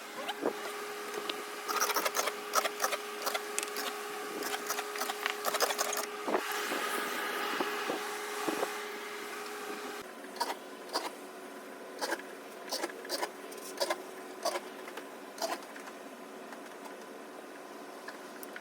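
A carpet-cleaning machine hums steadily, with many scattered clicks and knocks. About ten seconds in the hum drops slightly in pitch.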